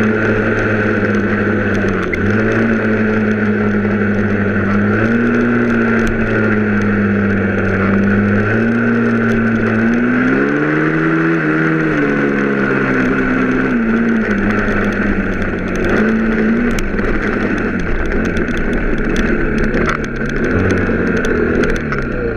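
Motor vehicle engine running under way at a fairly steady pitch, with brief dips and one rise and fall about halfway through.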